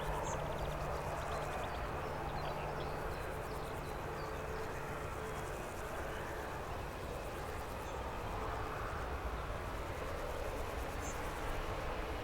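Steady outdoor ambience with a constant low rumble and a faint steady hum, typical of distant aircraft engines, and small birds chirping faintly during the first few seconds.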